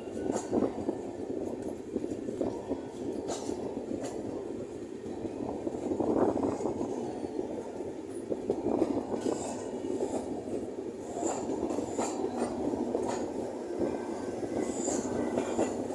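Train running on the track: a continuous rumble of wheels on rail, swelling and easing, with scattered sharp clicks and knocks and a few faint high squeals in the second half.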